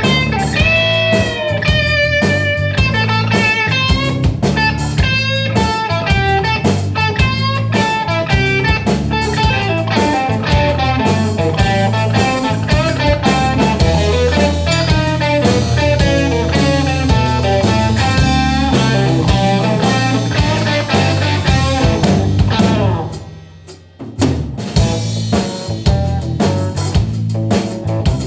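Blues trio playing an instrumental passage: guitar playing lead lines with bent notes over bass guitar and drum kit. The music drops out abruptly for about a second near the end, then the band comes back in.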